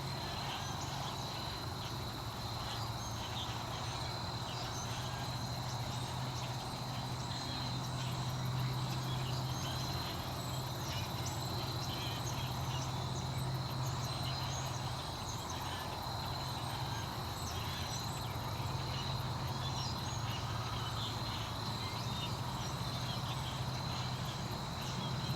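Outdoor nature ambience: a steady high-pitched insect drone with many short chirps scattered over it and a low steady hum underneath.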